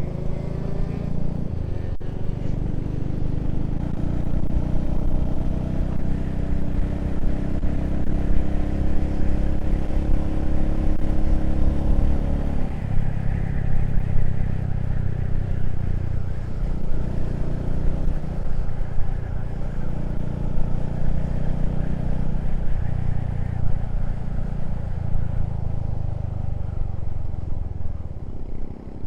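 Motorcycle engine running at road speed with wind rush, its note drifting up and down with the throttle.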